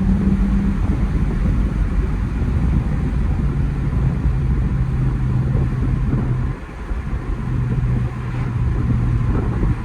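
BMW E82's N52 inline-six with a muffler delete running on the move, a steady loud exhaust drone with wind and road noise. The drone settles to a lower pitch about three and a half seconds in, briefly drops off about six and a half seconds in, then picks up again.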